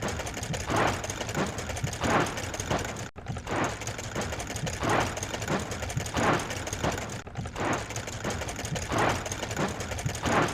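Looped mechanical sound effect: fast clicking under a whooshing swell that comes back about every second and a half, cut off briefly about three and seven seconds in.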